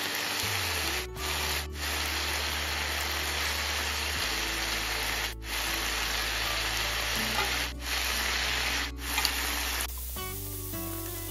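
Prawn and vegetable stir-fry sizzling in a hot frying pan as soaked rice noodles are added and tossed in, with background music underneath. The sizzle dips briefly a few times and stops near the end.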